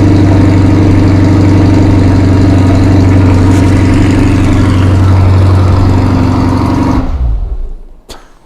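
Chevrolet Corvette C8's mid-mounted V8 idling steadily after a cold start, then switched off about seven seconds in and winding down to quiet. A single click follows near the end.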